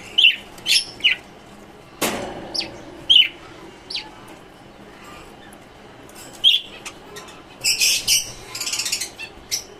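Lovebirds and finches chirping: short, sharp calls every second or so, with a quick run of several calls near the end. There is a brief rustle about two seconds in.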